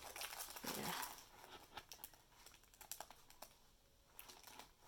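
Plastic packaging crinkling as it is handled and pulled off, densest in the first second, then thinning to scattered crackles and light taps.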